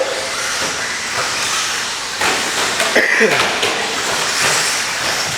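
Radio-controlled stadium trucks racing: a steady high hiss of motors and tyres, with a whine falling in pitch about three seconds in.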